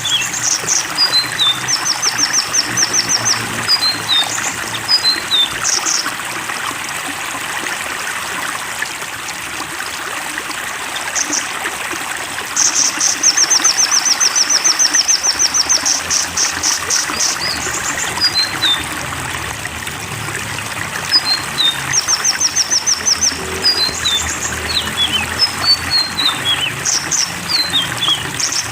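Songbird song over steadily running water: short descending chirps alternate with fast high trills, and the phrases repeat several times. The longest and loudest trill comes about halfway through.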